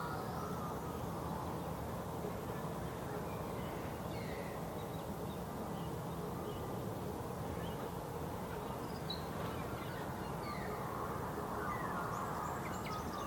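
Outdoor ambience: a steady low background rumble with short, scattered high bird chirps and brief sliding calls.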